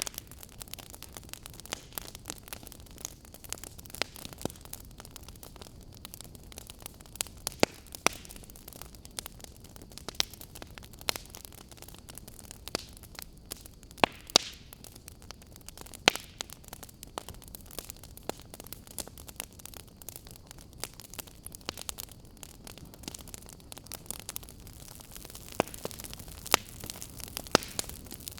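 Fire crackling: irregular sharp snaps and pops, a few of them louder, over a soft steady hiss.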